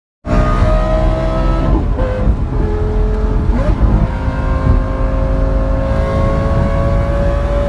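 Lamborghini sports car engine running, cutting in suddenly about a quarter second in and holding a steady, loud note with a little wavering in pitch.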